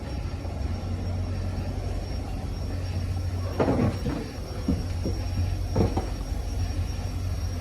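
Steady low rumble from inside a moving vehicle, with a few creaks and knocks about halfway through and again near six seconds.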